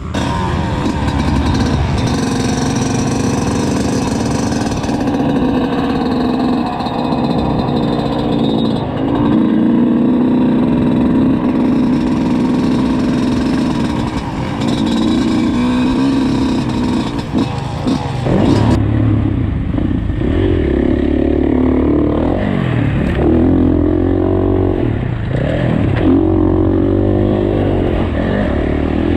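Dirt bike engines revving hard, pitch rising and falling again and again as the bikes accelerate and shift through the gears; the sound changes character about two-thirds of the way in.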